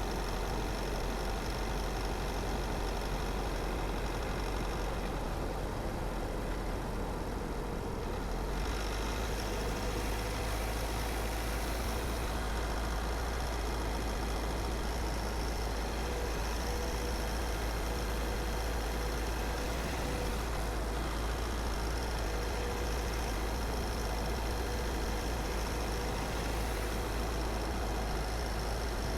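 Car driving at a steady pace: continuous engine and tyre noise with a deep steady hum, growing a little brighter about eight seconds in.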